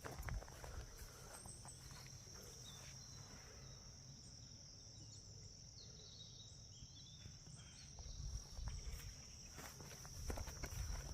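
A steady, high-pitched drone of insects such as crickets, with footsteps on a path over it, heavier about a second in and again in the last few seconds. Faint short chirps come in the middle.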